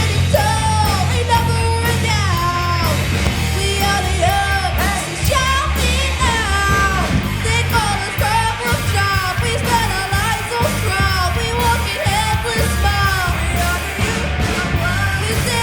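Live rock band performing a hard-rock cover, a lead vocalist singing loudly over a full band with a heavy bass and drum low end.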